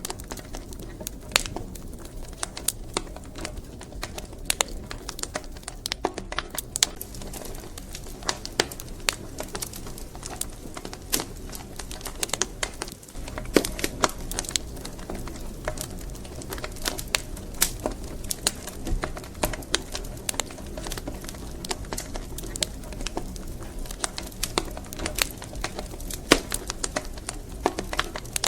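Wood fire crackling: irregular sharp pops and snaps of burning firewood over a steady low rumble of flames.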